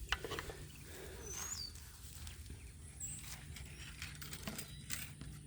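Faint outdoor background with a couple of short, high bird chirps, one about a second and a half in and another about three seconds in, and a few light taps.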